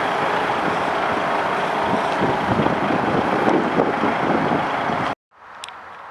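DAF XF 450 tractor unit's six-cylinder diesel engine running, heard loud and close. It cuts off suddenly about five seconds in, leaving faint background noise with one short high chirp.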